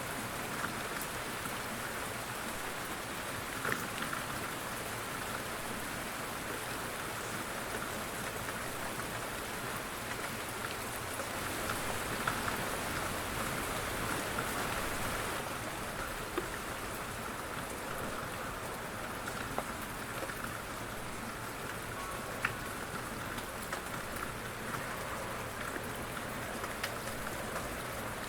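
Steady light rain falling on a surface, a continuous patter with now and then a single louder drop.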